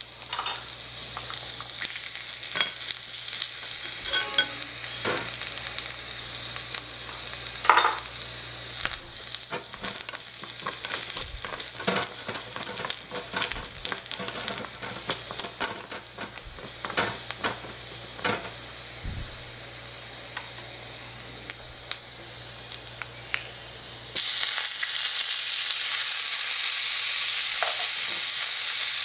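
Garlic sizzling in hot oil in a miniature metal wok, with a small wooden spatula scraping and tapping against the pan as it is stirred. About 24 seconds in the sizzle suddenly becomes louder and brighter.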